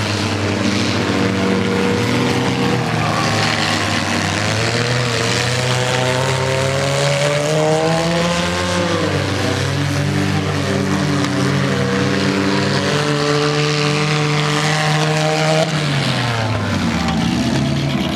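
Several small-car engines running hard in a figure-8 race, revving up and falling back over and over as the cars work the track. About three-quarters of the way through, one engine's pitch drops sharply as it comes off the throttle.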